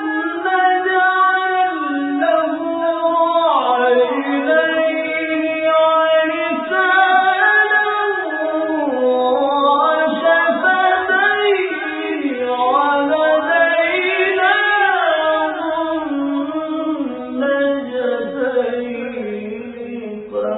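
A young qari's voice in melodic Quran recitation, one long ornamented phrase winding up and down in pitch, sung without a pause for breath.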